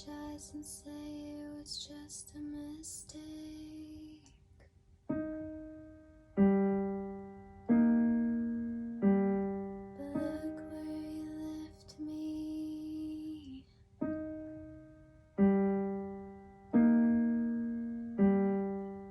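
Music: slow keyboard notes struck one after another, about one every second and a half, each ringing and fading away. The first few seconds hold a softer passage with airy, high sweeping sounds over held notes.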